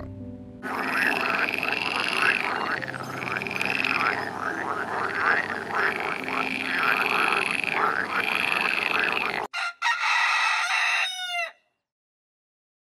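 A frog croaking over and over in a steady rhythm for about nine seconds, then, after an abrupt change, a rooster crowing once, its call falling away at the end before the sound stops.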